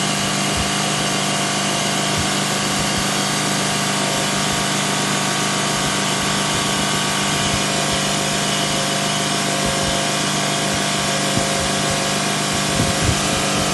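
Washing machine's electric motor running with a steady, unchanging hum. Irregular low knocks join in near the end.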